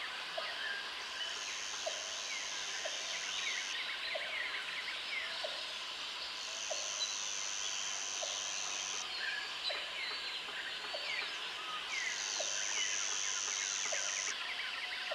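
Jungle ambience: a dense chorus of many birds chirping and whistling, with a high insect buzz that comes in three times for about two and a half seconds each, and a short low call repeating steadily about every 0.7 s.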